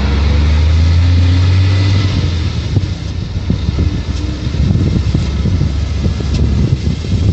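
Motor vehicle noise: a loud, steady low engine hum for the first couple of seconds, then uneven low rumbling and buffeting.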